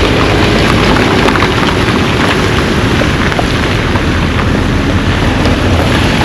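Heavy rain falling, a loud steady hiss peppered with many small drop impacts.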